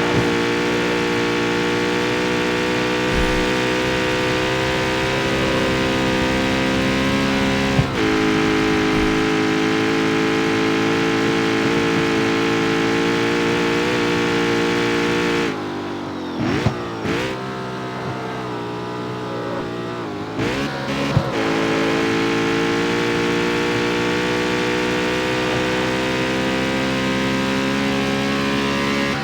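Jaguar F-Type's supercharged 5.0-litre V8 running at steady revs, with a single sharp crack about 8 seconds in. About halfway through the revs fall and swing down and up again, with a few sharp exhaust cracks, before the engine settles back to steady revs.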